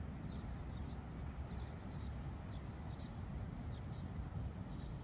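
Small birds chirping, short high calls repeating about twice a second, over a steady low rumble.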